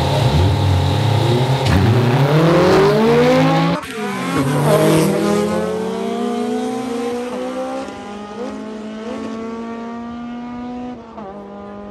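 Honda Civic engines launching from a standing start and revving hard up through the gears, the pitch climbing and dropping back at each upshift. The sound fades as the cars pull away.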